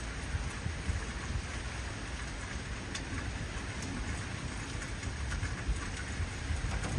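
Heavy rain falling steadily, a dense even hiss, with a low rumble of thunder underneath.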